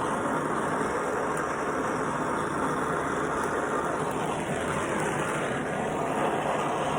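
Brazing torch flame hissing steadily while it heats the compressor's refrigerant-line joints for brazing. The tone dips and rises once about four to five seconds in.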